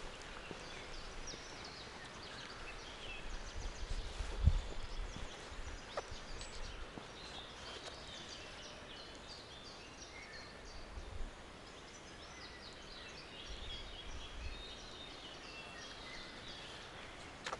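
Small songbirds chirping and trilling in a forest, many short calls overlapping throughout. A few dull low thumps come and go, the strongest about four and a half seconds in.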